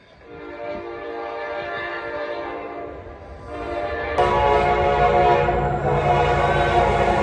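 Diesel locomotive's horn sounding a long blast that dips briefly about three seconds in, then carries on as the train's low rumble comes up suddenly and loud beneath it about four seconds in.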